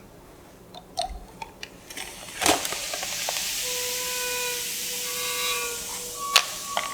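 A sharp click, then a steady hiss like escaping gas or steam, with a faint whistling tone over it, lasting about four seconds and ending in another sharp click.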